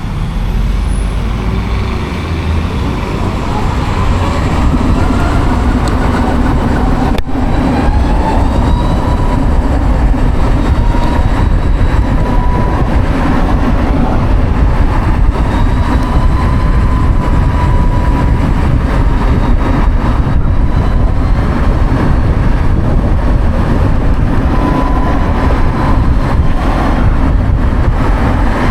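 Savic C3 electric motorcycle being ridden, heavy wind and road rumble on the microphone, with the electric drivetrain's thin whine rising as it picks up speed over the first several seconds and then holding fairly steady.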